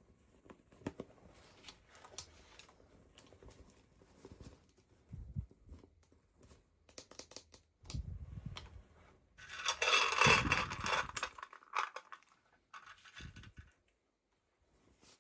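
Toy packaging being opened by hand: scattered small clicks and rustles, then a louder stretch of tearing and crinkling about ten seconds in that lasts roughly two seconds.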